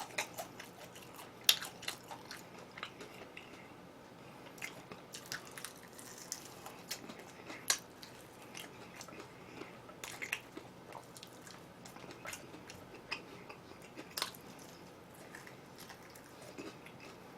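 A person chewing food close to the microphone, with scattered short sharp clicks of biting, the loudest about a second and a half in.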